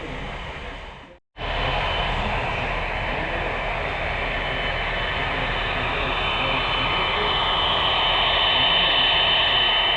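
HO scale model train running on the layout, a steady whirring with a thin high whine, slowly growing louder as it draws nearer.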